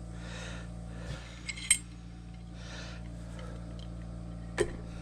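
Light metallic clinks, rubs and taps of steel parts and tools being handled while a small bearing is set up to be pressed onto the key machine's spindle, with a sharp click a little under two seconds in and another near the end. A steady low hum runs underneath.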